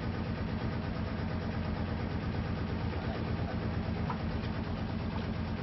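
Boat engine running steadily at a low, even hum.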